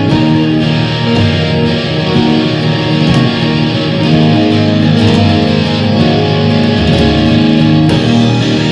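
A loud, dense jam of electric guitar, synth and drums, with held, sustained notes over a steady wash of noise.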